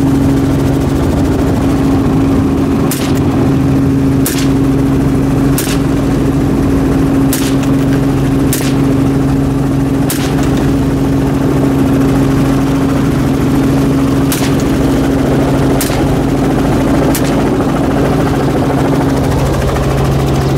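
Helicopter engine and rotor drone, steady and loud, with about nine sharp gunshots fired at irregular intervals of one to four seconds, from about three seconds in to about seventeen seconds in.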